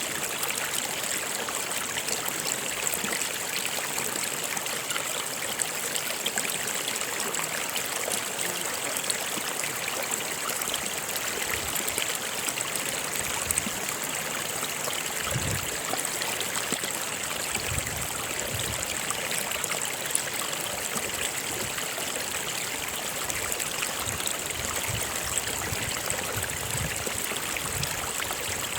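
A stream flowing steadily: a constant rushing, trickling water noise, with a few soft low gurgles in the second half.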